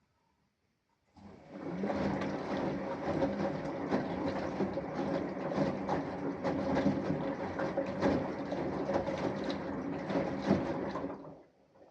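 Samsung Eco Bubble washing machine's inverter motor turning the drum through one wash stroke: a steady motor hum with irregular knocks, starting about a second in and stopping shortly before the end.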